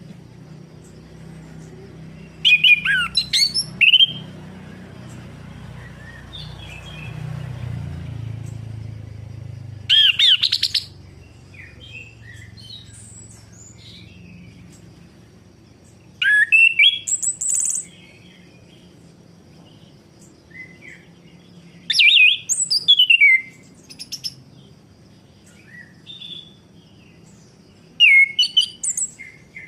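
Orange-headed thrush (anis kembang) singing: five loud bursts of rapid, varied whistled phrases, about one every six seconds, played as a stimulation track to get a silent caged thrush singing.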